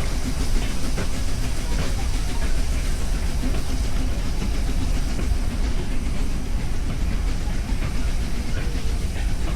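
Steady low rumble of a train running on the rails, with light rattles and clicks.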